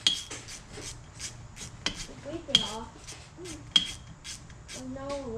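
Irregular sharp metal clicks and clinks, several with a short high ring, from hand tools and parts being fitted as the cam chain tensioner goes back into a Yamaha Warrior 350 engine.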